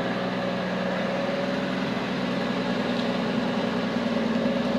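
Chevrolet 4.1-litre straight-six engine running steadily just over idle, fuelled purely by wood gas from a gasifier.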